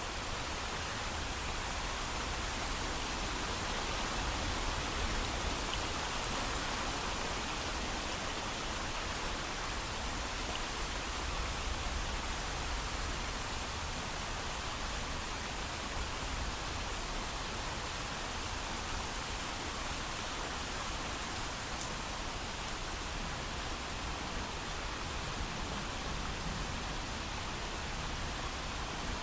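Steady heavy rain falling without thunder, an even hiss with no distinct drops or breaks.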